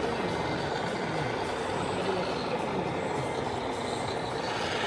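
Steady exhibition-hall noise: a dense wash of vehicle-like engine sound from RC construction models, with a faint murmur of voices underneath.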